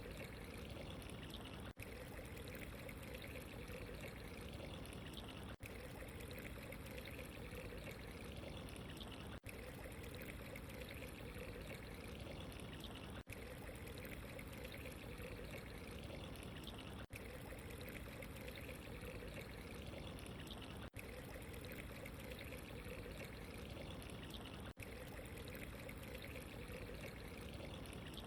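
Steady running, trickling water, with a very brief dip in loudness about every four seconds where the recording loops.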